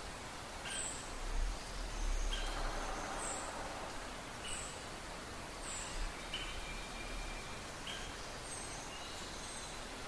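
Wild birds calling: short, high chirps and brief clear notes repeated about once a second over a steady background hiss, with a brief low rumble a second or two in.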